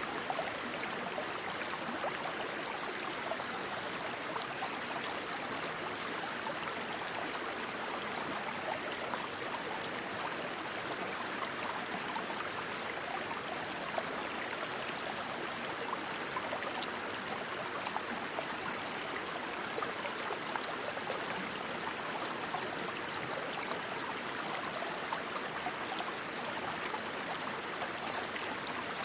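Stream water rushing and babbling steadily. Short, high chirps break in irregularly, with a quick trill about eight seconds in and again near the end.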